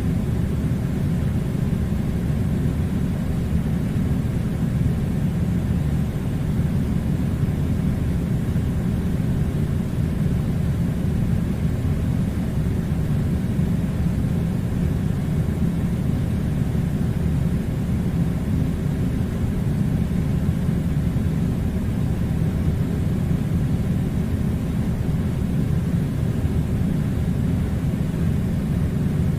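Steady low rumbling air conditioner noise, an even hum of blowing air that holds constant throughout.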